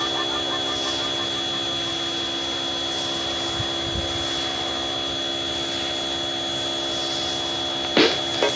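Steady rubbing hiss of a car being washed, with a faint steady whine beneath it. A few sharp taps come right at the end.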